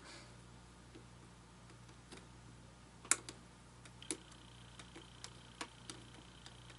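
Scattered small sharp clicks and taps, irregular in timing, from plastic parts and a small tool being handled, over a faint steady electrical hum. A faint high steady whine comes in about four seconds in.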